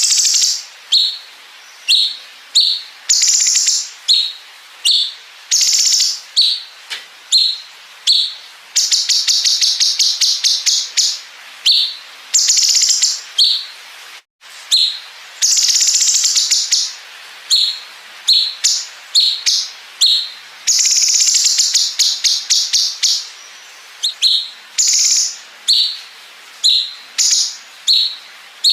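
Cucak cungkok song: short, loud, high whistled phrases repeated every second or so, broken twice by long, rapid machine-gun-like runs of chattering notes, the 'bren' fills that tutor birds are meant to copy.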